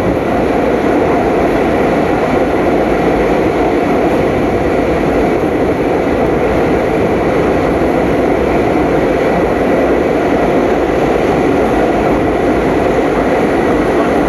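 Passenger train running at speed: a steady, loud rumble and rush of wheels on rails, with no change through the stretch.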